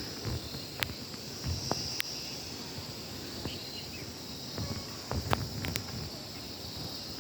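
Steady high-pitched drone of insects, such as crickets or cicadas, with a few sharp clicks and low thumps scattered through it.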